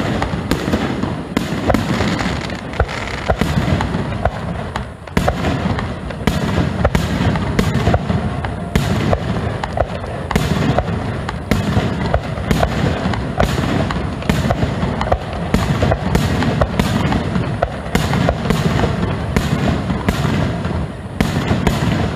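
Aerial fireworks shells launching and bursting overhead in a dense barrage: sharp booms and crackle in rapid succession, about two a second, over a continuous low rumble.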